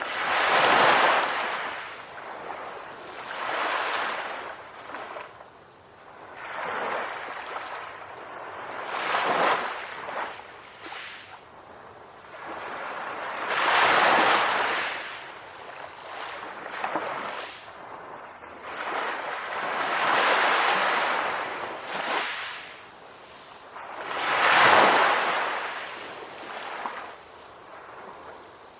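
Ocean waves washing onto the shore: a hissing rush of surf swells up and dies away about seven times, a few seconds apart, with quieter lulls between.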